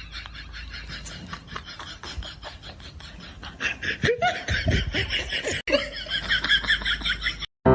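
People laughing in quick, rapid-fire bursts that grow louder in the second half, then cut off suddenly near the end.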